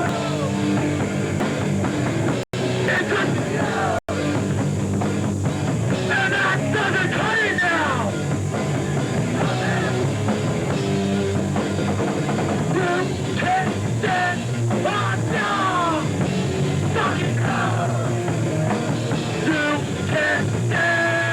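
Hardcore punk band playing live, with electric guitars and drum kit, heard on a home VHS recording. The sound cuts out for an instant twice, about two and a half and four seconds in.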